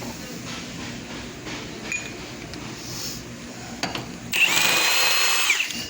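A power tool spinning a truck body bolt out: a few light clicks, then a loud, even, high whine for about a second and a half near the end, which dips away as it stops.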